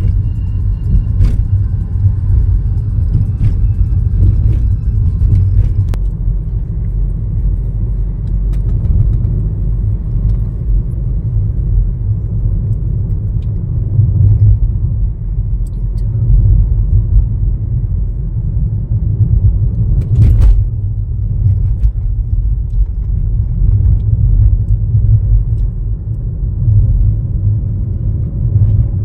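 Steady low road and engine rumble of a car driving, heard from inside the vehicle. A few faint clicks come in the first few seconds, and a short sharp noise about twenty seconds in.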